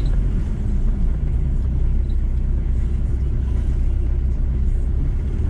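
VW T4 campervan on the move: a steady engine and road rumble.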